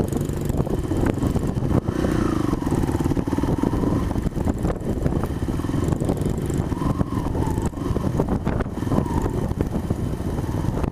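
Small Honda 70cc four-stroke dirt bike engine running, its pitch rising and falling as the throttle changes.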